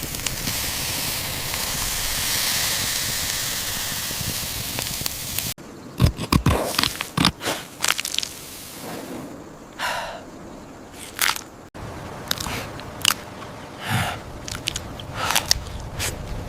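A steady hiss for about five seconds, then after an abrupt cut a run of short, irregular crunching and rustling sounds, like close-up eating and handling of leaves.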